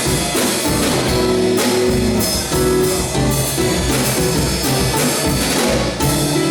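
Live samba band playing an instrumental passage, with a drum kit keeping a steady samba beat under guitar and other instruments.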